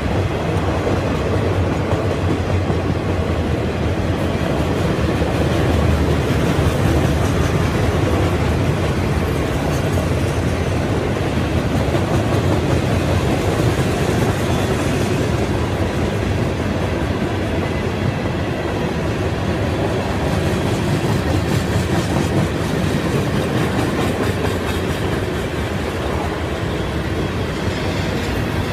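Freight cars of a CSX mixed freight train (boxcars, tank cars and covered hoppers) rolling past: a steady rumble of steel wheels on the rails.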